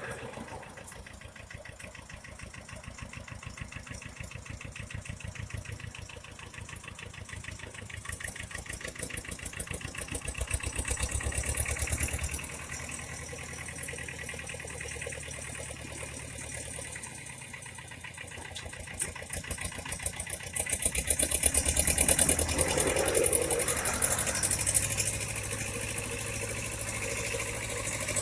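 Shenniu 4/25 compact tractor's small diesel engine running at a steady idle, with two stretches where it gets louder for a few seconds, about a third of the way in and again past the middle.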